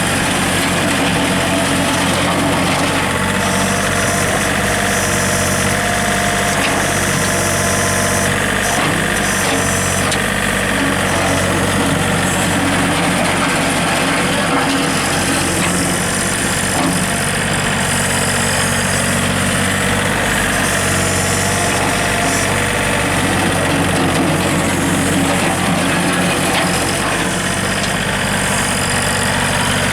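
John Deere 3320 compact tractor's three-cylinder diesel engine idling steadily.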